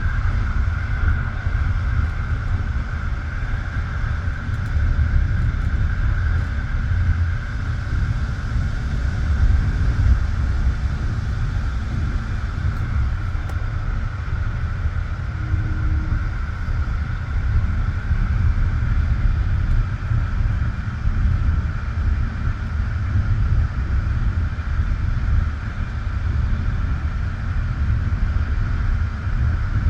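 Passenger train running steadily at speed, heard from inside the carriage: a low rumble of the wheels on the rails with a steady hiss above it.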